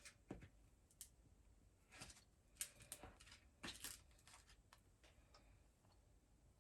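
Near silence: room tone with a few faint, brief clicks and rustles of small objects being handled.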